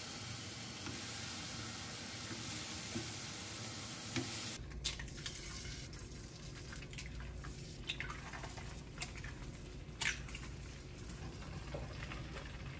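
Beef patty sizzling in a frying pan with a steady hiss. About four and a half seconds in the sound changes to eggs frying in a pan, with a softer hiss and a few sharp clicks and taps.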